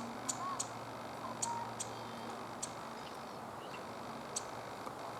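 Cetti's warbler giving sharp single call notes, about five spread unevenly over a few seconds.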